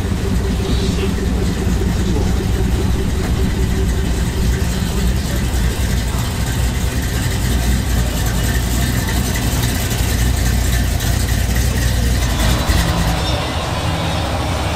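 Car engine idling steadily, with people talking around it.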